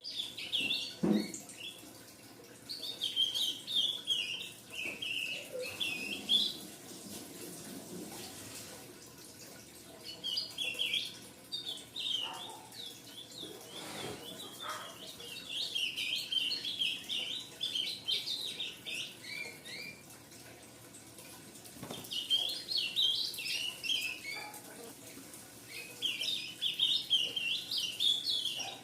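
Young ultramarine grosbeak (azulão) twittering in rapid bouts of high chirps, each bout a few seconds long with pauses between. A few soft knocks come in between.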